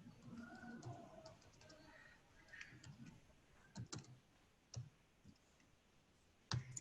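Faint, scattered clicks of computer keyboard keys as text is typed, a handful of separate keystrokes in the second half.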